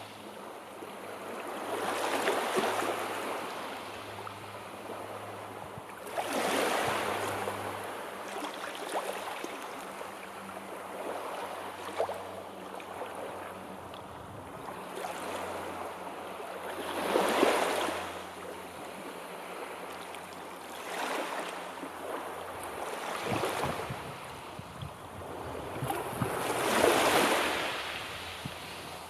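Sea surf: waves swelling and breaking in slow surges every several seconds, with a steady low hum beneath that stops about two-thirds of the way through.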